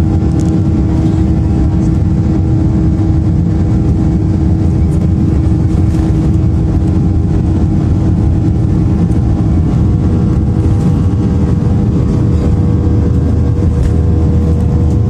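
Steady, loud drone of an airliner's jet engines heard from inside the cabin, with a constant hum running through it.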